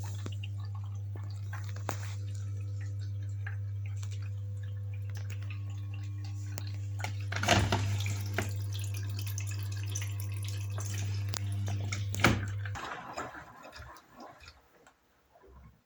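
Beko washing machine humming steadily, with water splashing and gurgling inside and louder sloshing twice. The hum stops suddenly about 13 seconds in.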